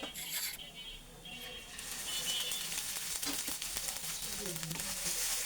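Chopped onions sizzling in hot mustard oil in a pan, the sizzle picking up and holding steady from about two seconds in.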